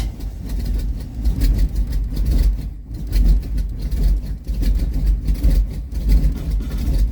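1940 Ford pickup hot rod's engine cranking and stumbling through a cold start, pulsing unevenly as it struggles to catch with the choke eased back.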